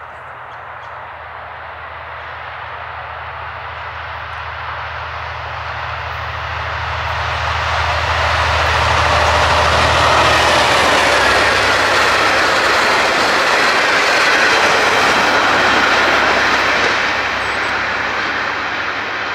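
V/Line N-class diesel-electric locomotive, with its EMD two-stroke diesel, hauling a passenger train past. The engine's low steady drone grows as the locomotive approaches and passes. The noise of the wheels on the rails then peaks as the carriages go by and eases as the train draws away near the end.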